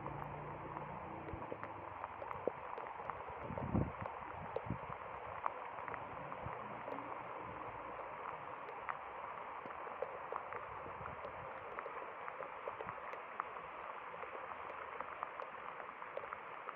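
Strong wind battering market stalls and tents: a steady rushing noise with many small clicks and rattles throughout, and a dull thump a little under four seconds in.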